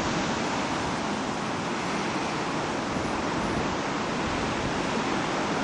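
Strong wind blowing across the microphone: a steady, even rushing noise.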